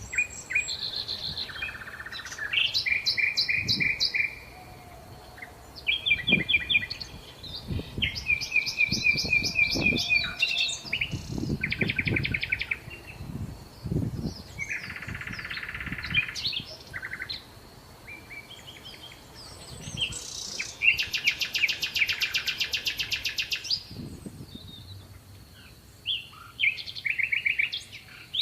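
Songbirds singing in a steady run of varied phrases: chirps, short warbles and fast trills, with a long, rapid trill about three quarters of the way through.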